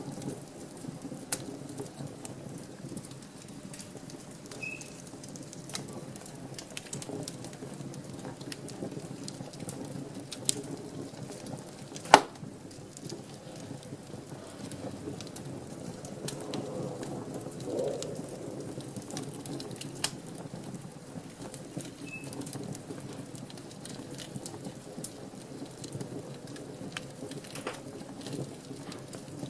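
Wood fire burning in a fireplace: a steady low rush of flames with scattered crackles and pops, the loudest sharp pop about twelve seconds in.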